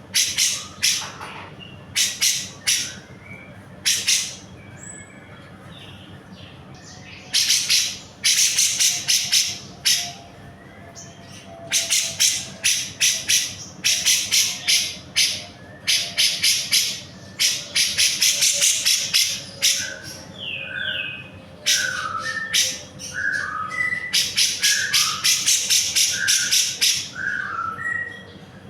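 Grey-cheeked bulbul (cucak jenggot) calling in repeated bursts of fast, rattling chatter, with short lower notes mixed in from about twenty seconds in.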